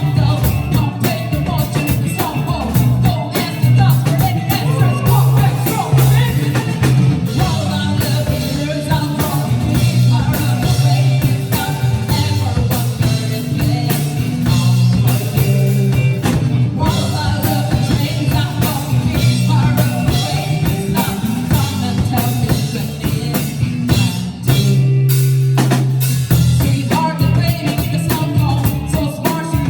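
Live band playing a song, with a singer over drum kit, bass and guitar. About 25 seconds in, the band drops out briefly and only a held low note carries on before they come back in.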